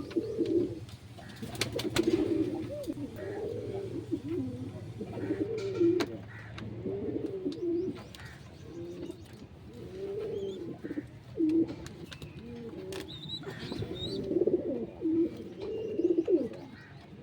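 Domestic pigeons cooing over and over, one coo after another with calls overlapping, as from several birds. A few sharp clicks come in, and a low hum stops about seven seconds in.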